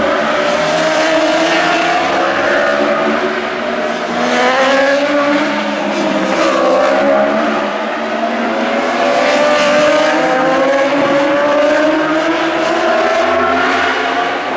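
Several superbike racing motorcycles at full race speed, their engines overlapping in a continuous sound whose pitch keeps rising and falling as the bikes come past and pull away.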